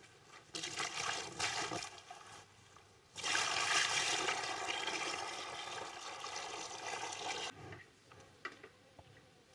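Water being poured and splashing: a few short spells, then a longer steady pour of about four seconds that tails off.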